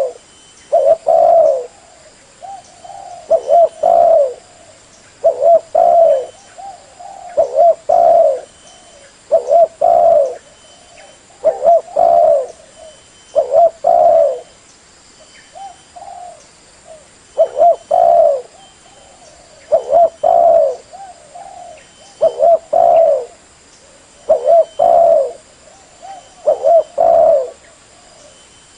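Spotted dove cooing: a repeated phrase of a few low coos, about one phrase every two seconds, as used to lure other spotted doves.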